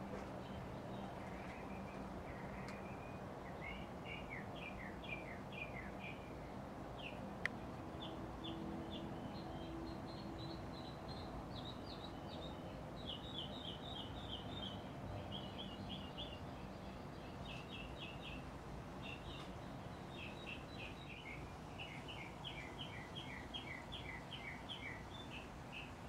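A small bird chirping in quick runs of short high notes, over a faint steady low hum, with one sharp click about seven seconds in.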